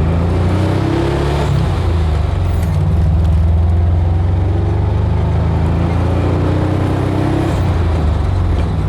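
Air-cooled flat-four engine of a VW Beetle Cabriolet pulling on the road. Its note rises under acceleration and drops about a second and a half in at a gear change, then climbs again and drops once more near the end.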